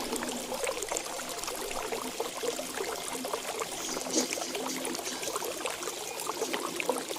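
Water trickling and splashing steadily, with a faint bird call high up about four seconds in.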